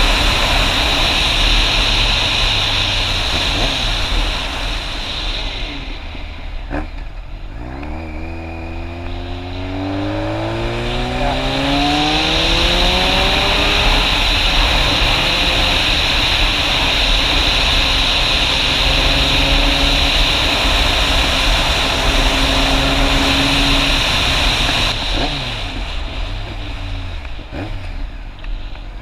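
Motorcycle engine under way with heavy wind rush on the microphone. The engine slows about seven seconds in, then its pitch climbs steadily as it accelerates, holds at speed, and eases off near the end.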